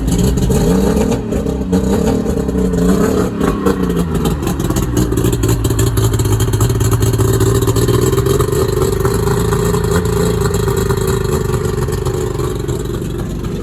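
Two-stroke outboard boat motor running in neutral on the throttle-only setting, prop disengaged. It is revved up and down for the first few seconds, then held at a steady higher speed that eases off slightly near the end.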